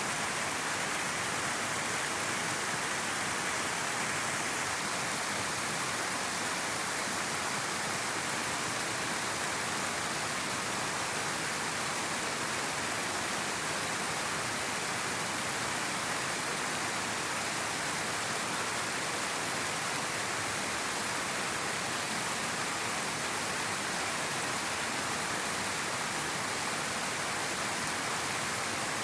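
A river flowing, its water rushing in a steady, even hiss with no breaks or single splashes.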